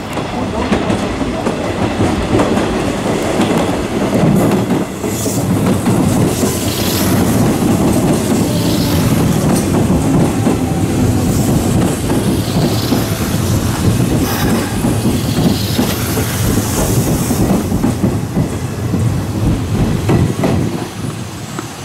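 Electric commuter train running over station pointwork, its wheels clattering over rail joints and switches with some wheel squeal. Another train runs past on the adjacent track partway through.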